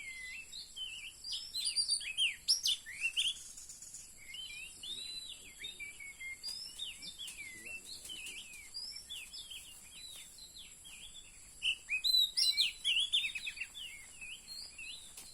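Oriental magpie-robin calling: a rapid run of short chirps and whistles, with two louder bursts, one just after the start and one about twelve seconds in.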